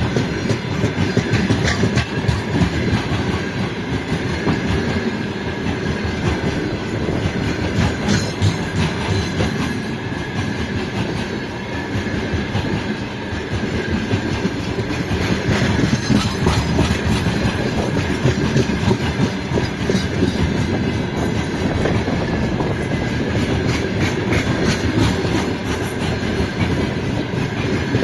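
Freight train rolling past at steady speed: a continuous rumble of wagons with wheels clicking over rail joints.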